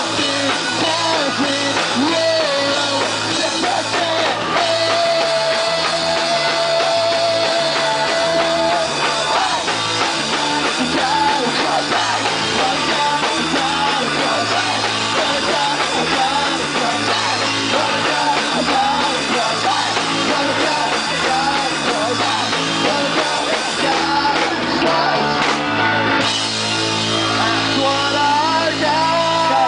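Pop-punk trio playing live and loud: distorted electric guitar and drum kit driving a steady beat under sung vocals.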